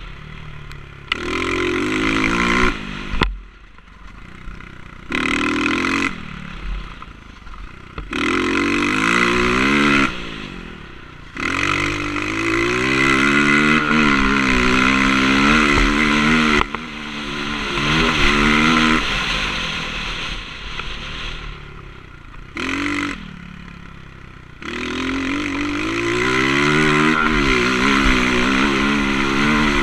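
Motocross bike engine revving up and easing off again and again, the throttle opened in bursts of a few seconds with short lulls between, as the bike is ridden round a track.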